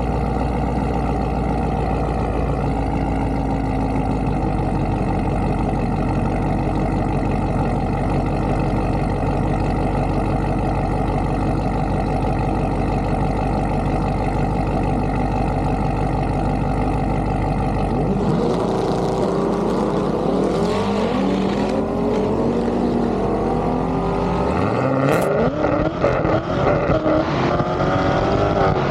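Car engines running at a drag strip: a steady, even engine drone for most of the time, then engines revving with pitch rising and falling in the last third, including one strong climbing sweep like a car accelerating hard.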